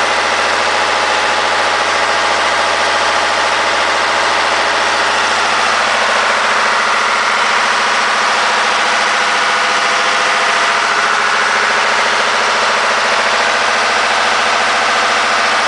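A slow boat's engine running loud and steady, heard from right beside it at the back of the boat.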